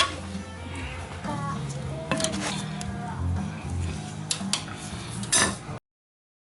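Metal tools and parts clinking and clattering in several separate sharp clicks with brief ringing, over background music. It cuts off abruptly near the end.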